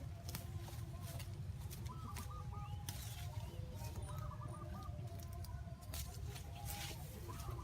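Birds calling in short pitched phrases, twice, over a steady low rumble with a few sharp clicks.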